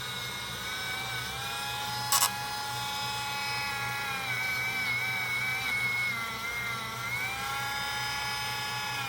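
Small rotary tool running a small buffing wheel against a pocketknife: a steady high whine whose pitch sags a few times as the wheel is pressed to the steel and picks up again as it is eased off. A short sharp click about two seconds in.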